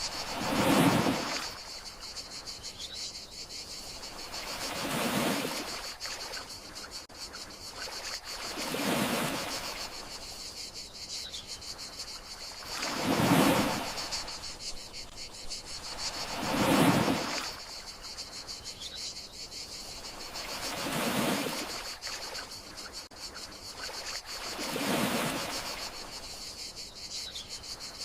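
Gentle sea waves washing ashore, swelling and falling away about every four seconds, over a steady high chirring of crickets.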